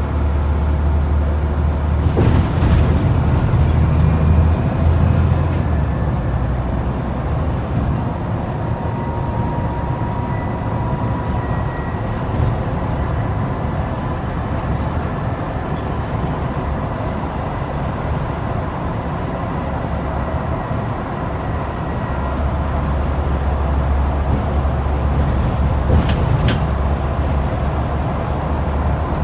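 Scania N94UD double-decker bus's 9-litre DC09 five-cylinder diesel under way, heard from on board with a heavy low drone. The engine pulls hard early on, eases off for a long stretch, then pulls hard again after about twenty seconds, with a faint whine and a couple of knocks or rattles from the body.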